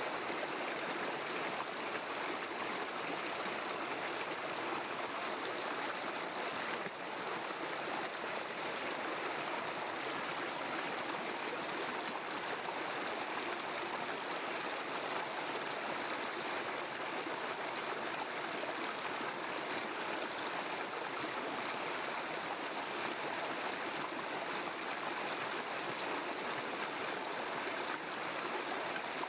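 River stream flowing, a steady rushing and burbling of water.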